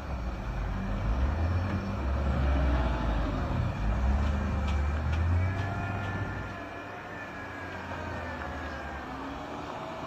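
Heavy truck engine working under load, loudest for the first half, then easing off to a steadier, quieter run.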